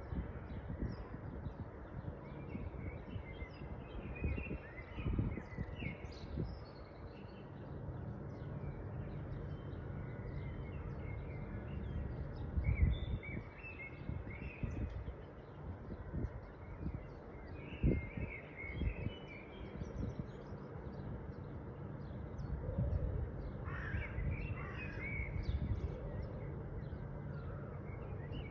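Wild birds calling with short, scattered chirps throughout, and a run of harsher, lower calls about 24 seconds in. A low, irregular rumble sits underneath.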